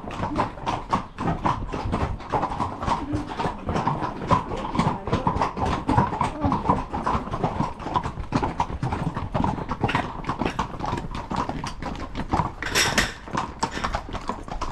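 Horses' hooves clip-clopping on a trail at a walk, a steady run of sharp hoof strikes. A brief rush of noise breaks in near the end.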